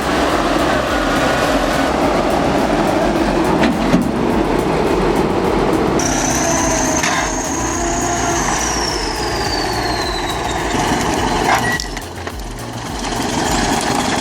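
Heavy tracked machines working: engine and track clatter with a few sharp knocks, changing abruptly about six seconds in. A high squeal falls slowly in pitch through the middle.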